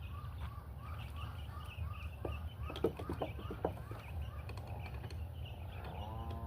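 A bird calling in a quick series of short rising chirps, about four a second, over a steady low hum, with a few knocks in the middle. A steady musical note comes in near the end.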